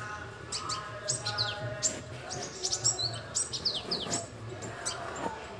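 Small birds chirping: many short, quick chirps that fall in pitch, coming repeatedly.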